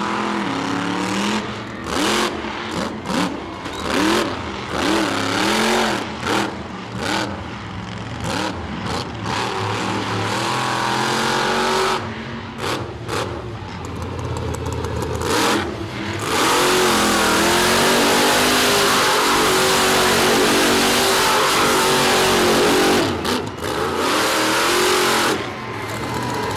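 Monster truck engine revving hard in a string of short, rising and falling bursts. About two-thirds of the way through, it is held at full throttle for several seconds, louder than the rest, before easing off.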